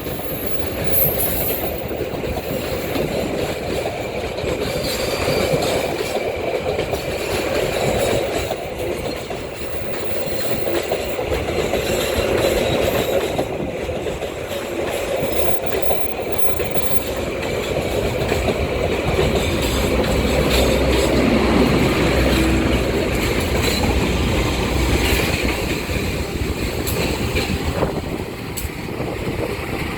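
Argo Anjasmoro intercity passenger train rolling through, its carriages' steel wheels running over the rails with clicks at the rail joints and a steady rumble that swells and eases.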